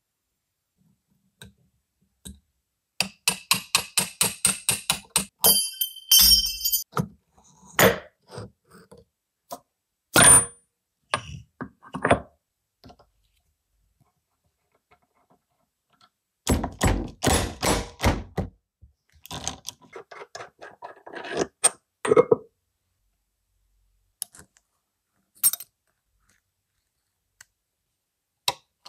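Metal parts and hand tools handled on a workbench: runs of quick, evenly spaced clicks, a short metallic ring, and scattered knocks and clinks.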